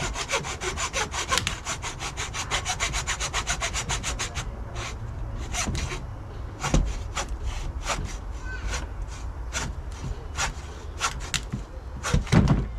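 Rapid, even scraping strokes, about nine a second, for the first four and a half seconds, then slower, irregular strokes. A heavier knock comes near the end.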